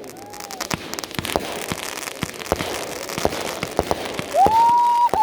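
Fireworks going off in an irregular string of sharp bangs and pops, several a second. About four seconds in, a loud high whistle rises quickly and then holds a steady pitch, louder than the bangs.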